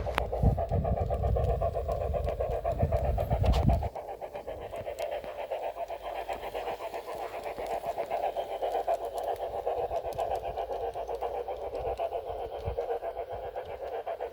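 Model steam locomotive sound from the Massoth XLS sound decoder in an LGB Forney, playing rapid, even steam chuffs through its small speaker. A low rumble underneath stops abruptly about four seconds in.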